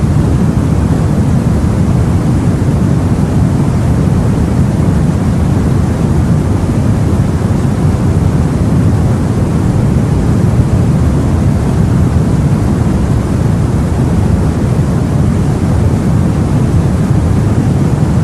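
Steady, unbroken rumble of sea and wind noise as heard aboard a boat, heaviest in the low end, with no separate wave crashes standing out.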